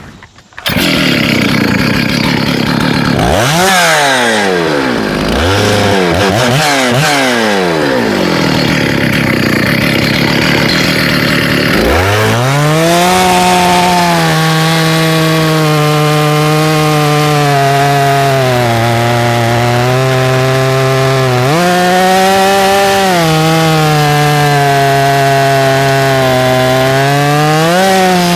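Husqvarna 395 XP clone two-stroke chainsaw coming up to speed about half a second in and revved up and down several times. From about twelve seconds in it is held at full throttle, cutting wood, and the pitch sags twice as the chain loads in the cut.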